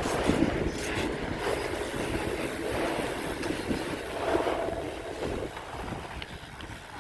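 Wind rushing over the microphone with road and traffic noise while riding a bicycle: a steady, uneven rushing with no clear engine or tone.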